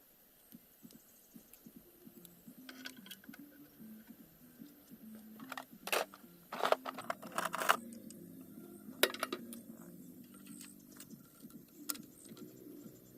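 A series of sharp clicks and clinks, loudest in a cluster just past the middle, over a faint low hum.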